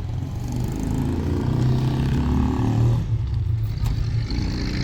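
A motor vehicle's engine running, getting louder and rising in pitch, then easing off about three seconds in.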